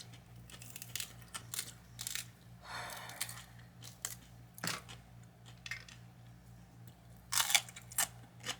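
Close-miked chewing of a crunchy sandwich roll: scattered crunches and mouth clicks, with a louder crunch about seven and a half seconds in.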